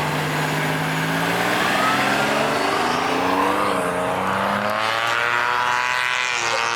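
A car engine accelerating hard past the onlookers, its note climbing steadily in pitch. It has an odd tone that is called "such a weird sound".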